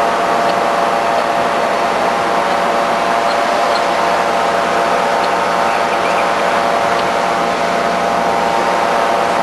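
NJ Transit diesel train standing at the station, its locomotive running with a loud, steady, whirring drone.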